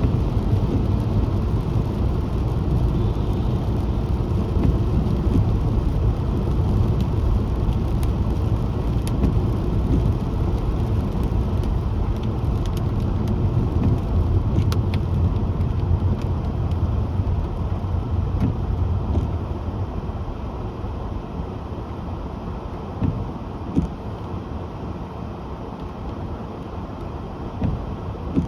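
Car driving on a wet road: a steady low rumble of tyres and engine that eases off somewhat after about two-thirds of the way through, with a few short knocks near the end.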